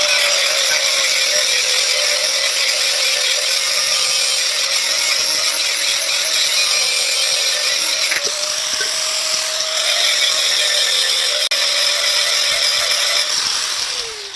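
An electric grinder running steadily, its motor whining, as it grinds down the chipped edge of a steel chisel bit for an electric demolition hammer to re-sharpen it. The motor winds down near the end.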